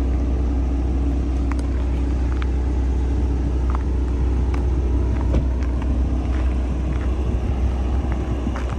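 Porsche Macan T's 2.0-litre turbocharged inline-four engine idling steadily, a deep, even drone from the exhaust.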